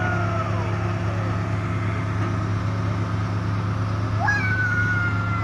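Delivery truck engine idling with a steady low hum, under a pitched mechanical whine. The whine winds down in pitch over the first second, then spins up sharply about four seconds in and slowly sags.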